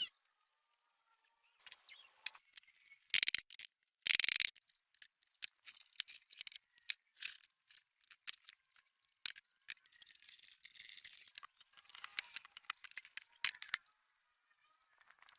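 Metal parts and hand tools clinking and tapping in irregular clicks, with two louder rasping bursts about three and four seconds in and a stretch of scraping around ten seconds in.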